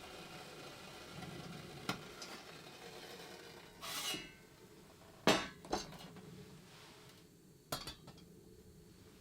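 Dishes and utensils being handled: a few scattered clinks and knocks, the loudest pair about five seconds in.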